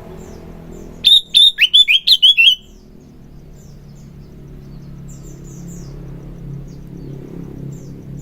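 Sooty-headed bulbul (kutilang) singing a quick, loud burst of about eight sliding notes about a second in. Faint chirps follow over a steady low hum.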